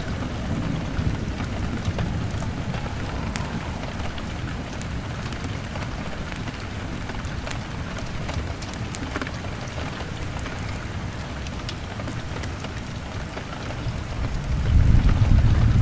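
Steady rain pattering on window glass with scattered sharp crackles from a log fire, and a low rumble of thunder swelling near the end.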